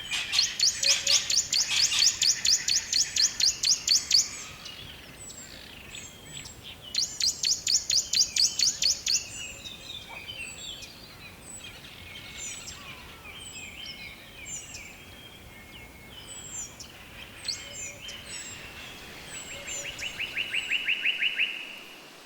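Wild songbirds singing. One bird gives a rapid, high trill of repeated notes twice, lasting about four seconds and then about two, followed by scattered short high chirps. Near the end comes a lower rapid trill.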